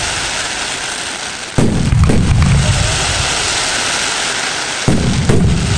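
Fireworks shells bursting: two booms about half a second apart, then two more about three seconds later, each trailing off in a low rumble over a steady background hiss.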